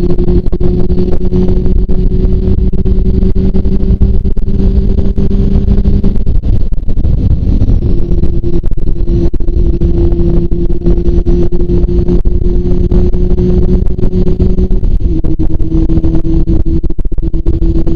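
Kawasaki ZRX400 inline-four engine running steadily at cruising speed under heavy low rumble from riding wind. The engine note dips away briefly about six seconds in, then picks up again and holds steady.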